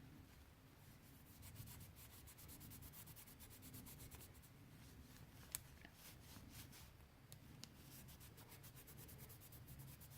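Faint, steady hand rubbing of metal polish onto a brass valve, with one small click about halfway through.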